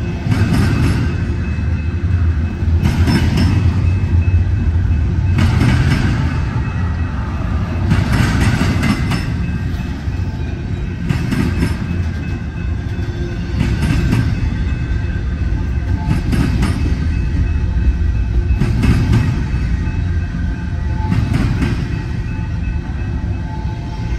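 Double-stack intermodal freight train rolling past close by: a steady low rumble from the cars, with a metallic clatter from the wheels about every two and a half seconds.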